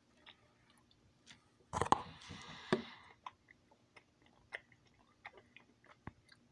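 A person chewing macaroni and cheese close to the microphone: small wet mouth clicks and smacks, with a louder burst about two seconds in.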